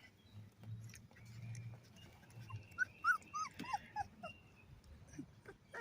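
Three-week-old American Pit Bull Terrier puppies whimpering: a quick run of short, high squeaks, each sliding down in pitch, about halfway through.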